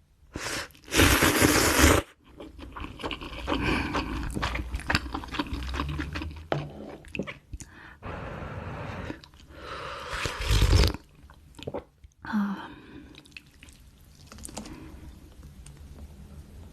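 Close-miked eating of ramen and chili kimchi: crunchy chewing and biting with many short wet clicks. Two louder, longer bursts come about a second in and about ten seconds in.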